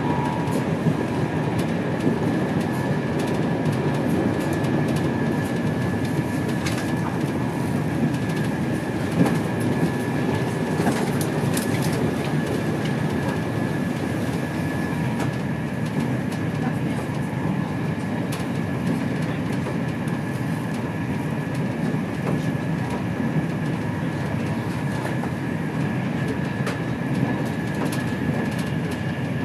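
Steady running rumble of an InterCity 225 passenger coach travelling at speed, heard inside the saloon, with scattered light clicks of wheels over the rails and a faint steady high whine.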